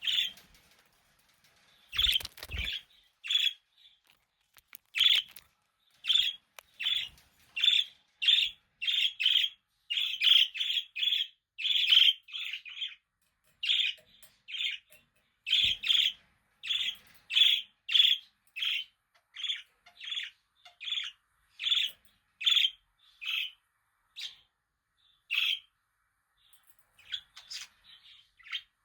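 Budgerigars chirping: a long run of short, high chirps, about two a second, broken by a few short pauses.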